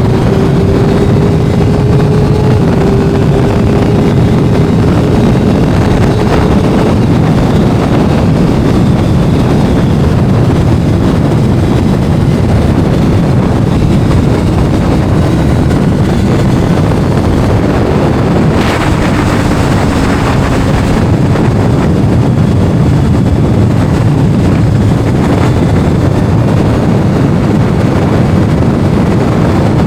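Heavy wind buffeting on the microphone of a moving motorcycle, steady and loud, with a Kawasaki inline-four sportbike engine faintly audible beneath it: its pitch climbs slowly over the first several seconds, and another engine note slides down about two-thirds of the way through.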